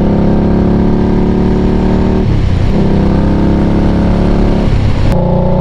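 2020 Indian Scout Bobber Twenty's V-twin engine running under way. The engine note breaks off briefly twice, about two and a quarter and four and three-quarter seconds in, then picks up again.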